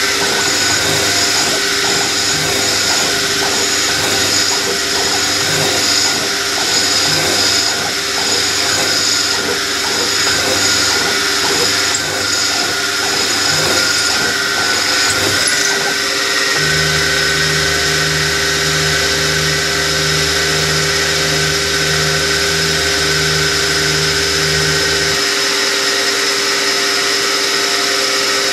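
Small metalworking machine tool running steadily under its electric motor while a twist drill cuts a hole in metal. About halfway through the sound changes and a low, evenly pulsing hum sets in for several seconds, then stops.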